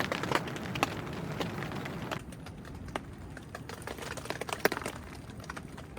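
Irregular drips of rainwater tapping on a tent as the rain eases off, over a faint steady hiss that thins about two seconds in.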